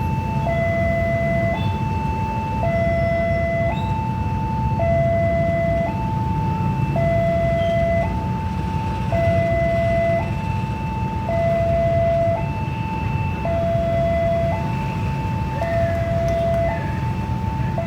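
Railway level-crossing warning alarm sounding continuously, an electronic two-tone signal alternating high and low about once a second, over a steady low rumble of vehicle engines and traffic.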